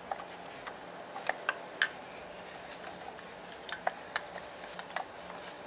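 Light, irregular wooden clicks and taps as carved linden-wood puppets are walked across the floor, their feet knocking on the surface in small clusters.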